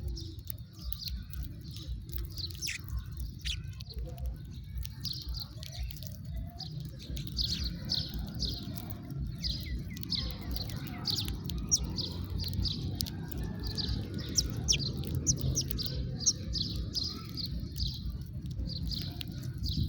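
House sparrows chirping, a few scattered chirps at first, then a dense run of quick chirps from about a third of the way in. A steady low rumble runs underneath.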